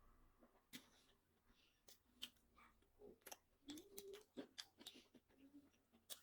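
Faint close-miked eating sounds: chewing on fast food, with scattered crisp crunches and wet mouth clicks a few times a second.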